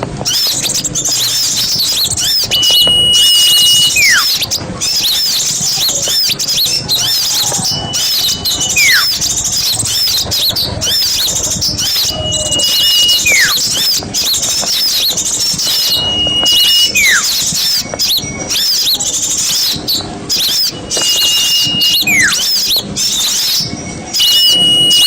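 Bird-lure recording of a noisy mixed chorus of small songbirds chirping continuously. Over it a call repeats about every four seconds: a held high whistle lasting about a second, then a whistle that falls steeply in pitch.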